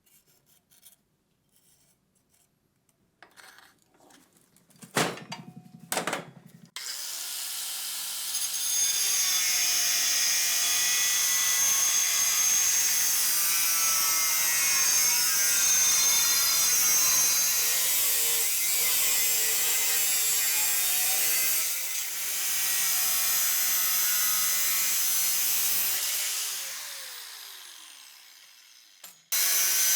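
A few light clicks and knocks of parts being handled, then an electric power tool runs against a workpiece for about twenty seconds. Its whine shifts in pitch under load and dips once. Near the end it winds down with a falling whine, then starts up again.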